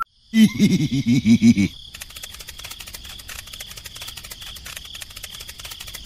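A quick run of about six short, pitched, voice-like syllables in the first second and a half, like a cartoon character chattering. After that comes a steady background of chirping crickets, a rapid even trill.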